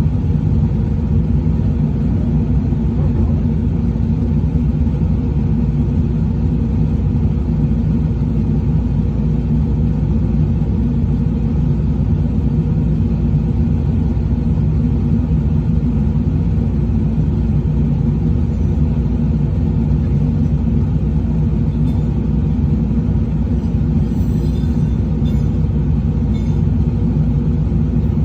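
Truck engine running steadily at a constant speed: a low, even rumble.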